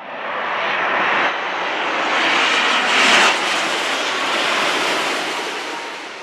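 Jet airliner's engines passing close by, a loud rushing roar that builds to a peak about three seconds in and then fades away.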